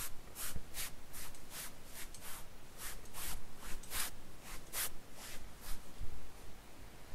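A heavy duvet-wrapped bundle is dragged across a carpet in short pulls, each a rough swish of fabric on carpet, about two to three a second. The swishes stop about six seconds in.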